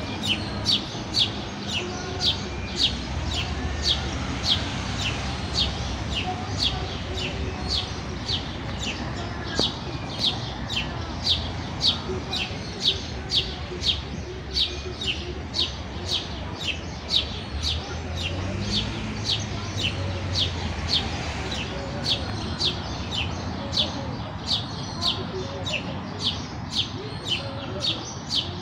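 House sparrow chirping a steady run of single short cheeps, about two a second, over a low background rumble.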